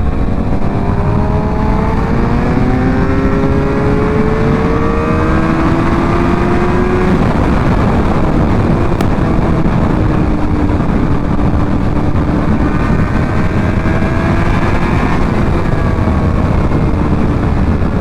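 Motorcycle engine pulling hard at speed under heavy wind rush, its pitch climbing slowly for about seven seconds, holding, climbing again and dropping back about fifteen seconds in.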